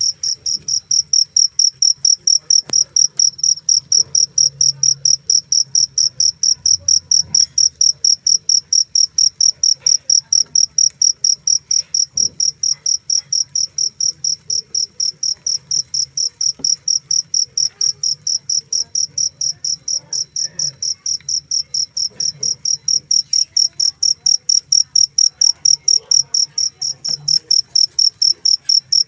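Cricket chirping loudly and steadily, a shrill high chirp repeated in an even rhythm of about three to four chirps a second.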